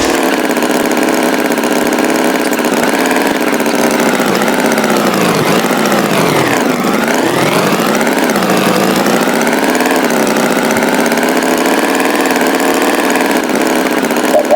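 Tractor engine running steadily, its pitch dipping and climbing back about halfway through.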